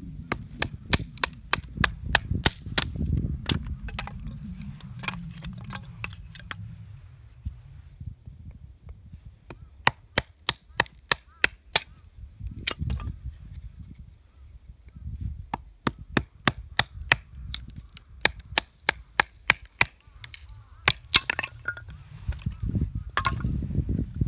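Dry wood snapping and cracking in runs of sharp clicks, several a second, with short pauses between the runs, over a low rumble.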